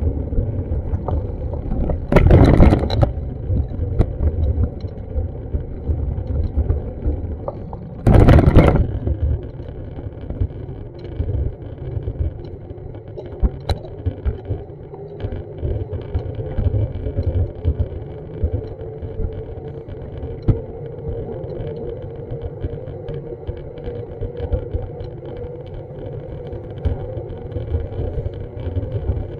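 Street ambience with a steady low rumble of traffic and wind on the microphone. Two loud rushing bursts, about a second each and some six seconds apart, come near the start.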